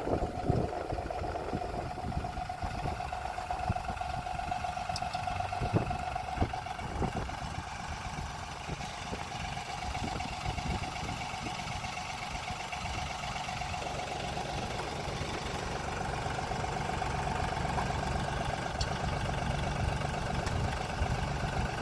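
John Deere 3032E compact tractor's three-cylinder diesel engine running steadily, with a few sharp knocks about six to seven seconds in. After about fourteen seconds the engine sound grows fuller and a little louder.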